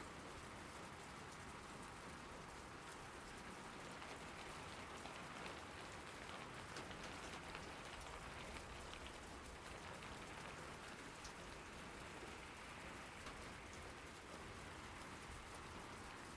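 Steady rain falling, an even hiss with faint drop ticks, no thunder.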